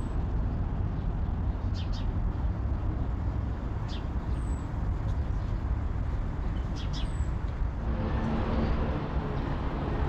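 Outdoor street ambience: a steady low rumble of background noise with a few short bird chirps. About eight seconds in, a vehicle engine's hum comes in.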